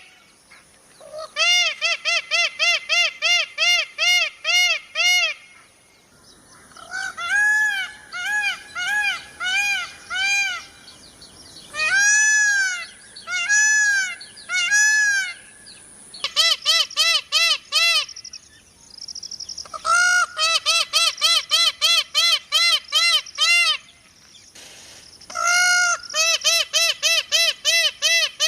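Peacock calling: runs of short, loud, honking calls repeated several times a second, broken by brief pauses, with a slower run of higher-pitched calls in the middle.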